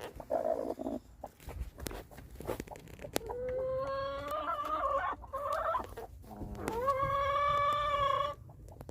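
Hen giving loud, drawn-out squawking calls: a short call right at the start, then a longer wavering call a few seconds in, and a long call that rises and holds steady near the end, the loudest. Scattered small clicks and rustles run underneath. The calls go with a hen laying a large egg, which looks painful.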